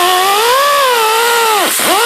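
Electric power tool motor running at high speed, its pitch wavering as it works. Near the end the pitch drops sharply and then climbs back, as the tool bogs down under load and recovers.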